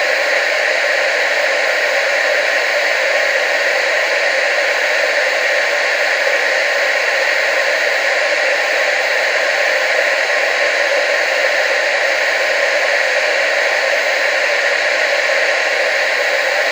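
TV static: a steady, even hiss with no breaks or changes, strongest in the middle and upper range and thin in the bass.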